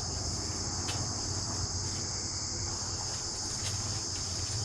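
Steady chorus of insects, typical of crickets, ringing without a break over a low steady rumble.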